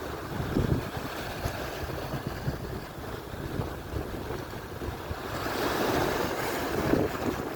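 Atlantic surf: waves washing in steadily, one wave breaking louder and hissing about five seconds in, with wind buffeting the microphone.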